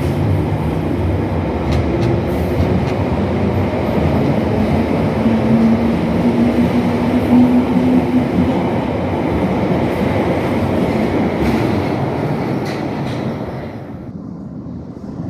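London Underground 1972 Stock Bakerloo line train pulling out of the platform: a loud, steady rumble of wheels and running gear with a held hum in the middle. The sound falls away sharply near the end.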